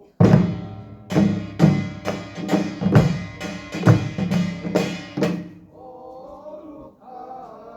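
Pungmul percussion ensemble playing about ten loud, ringing strikes about half a second apart, stopping a little past five seconds in. Voices then chant together.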